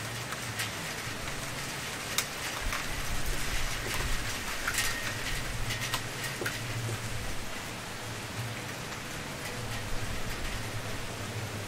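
Wood fire crackling, with frequent sharp pops and snaps that are busiest in the middle of the stretch, over a soft steady hiss.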